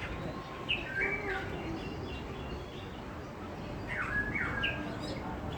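Captive birds chirping: short, quick calls about a second in and a cluster again around four seconds in, over a steady low background noise.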